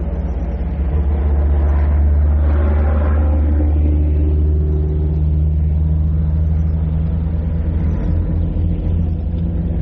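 Motor vehicle engine running close by, a steady low rumble with a hum, swelling about a second in and easing slightly near the end; heard through an old cassette recording.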